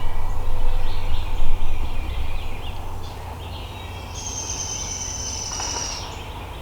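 Wild turkey gobbler gobbling among chirping small birds. A low rumble is loudest in the first half, and a steady high whistle sounds from about four seconds in to about six.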